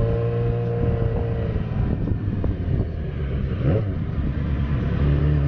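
Motorcycle engine running under way, with road noise. The engine's pitch climbs slightly and then fades out about a second and a half in, and a steady low engine drone comes in near the end.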